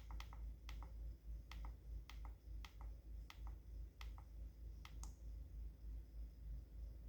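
Small plastic button on a Dyson V11 cordless vacuum's screen pressed again and again, a sharp double click of press and release each time, scrolling through the language menu. About nine presses come in the first five seconds, then a pause of about two seconds before one more.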